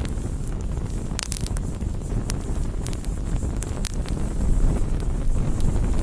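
Wood campfire crackling, with a handful of sharp pops and snaps, a small cluster of them about a second in, over a steady low rumble.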